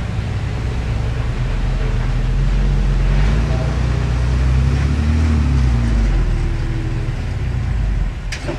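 Heavy diesel engine of earth-moving equipment running under load. It swells in the middle and eases off near the end, when a short sharp knock is heard.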